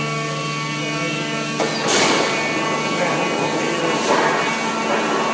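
Peddinghaus CNC drilling and bandsaw line running with a steady machine hum. About a second and a half in there is a click, and a louder, noisy working sound follows and carries on unevenly.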